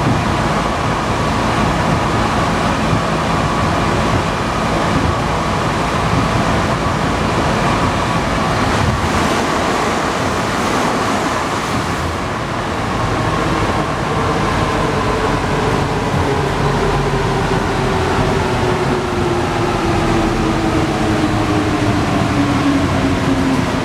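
Alstom NS-93 rubber-tyred metro train running with a steady rushing noise; in the second half its motor whine slides steadily down in pitch as the train slows.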